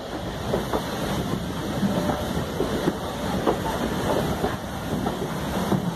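Heritage railway passenger carriage running along the track, heard from a carriage window: a steady rumble of wheels and coach with frequent irregular knocks and clicks.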